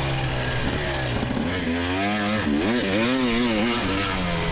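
2024 GasGas EX300 two-stroke dirt bike engine running, its note held low and steady for about the first second and a half, then rising and falling over and over as the throttle is worked on and off.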